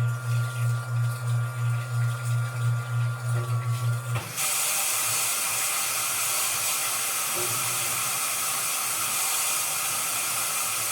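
Washing machine running: a low motor hum that pulses a few times a second, then about four seconds in the hum cuts off and water rushes into the drum with a steady hiss.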